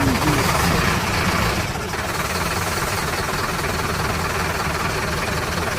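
Engine idling steadily, a dense, even running noise.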